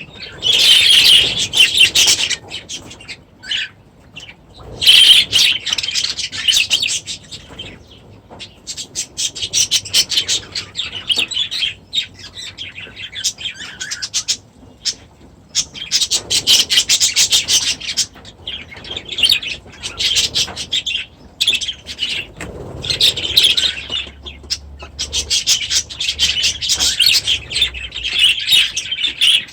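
A mixed flock of budgies and cockatiels chattering and chirping, a dense scratchy warble that swells loud for a few seconds at a time and then drops back, over and over.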